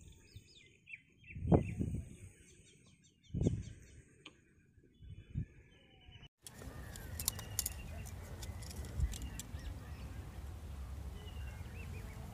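Small birds chirping in quick runs of short falling chirps, broken by two loud dull thumps about one and a half and three and a half seconds in. About six seconds in, the sound switches abruptly to a steady low rumble with a few clicks.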